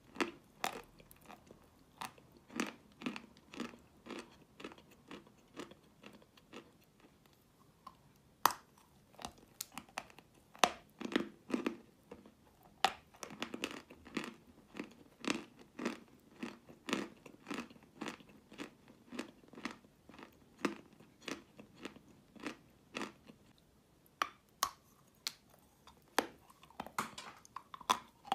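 A person chewing wet chalk: a steady run of soft crunches, about two a second, with a few sharper bites among them.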